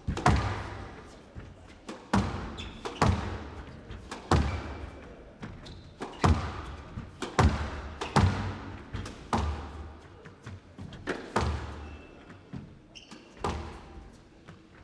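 Squash rally: the ball struck by rackets and hitting the court walls, sharp echoing cracks about once a second.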